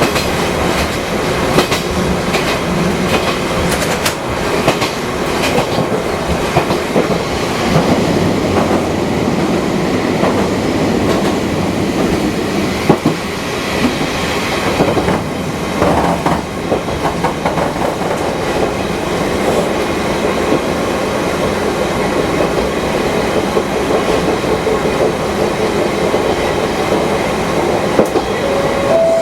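Fukui Railway 200 series electric car, over 50 years old, running along the line, heard from on board: steady running noise with the wheels clicking over rail joints, most often in the first several seconds.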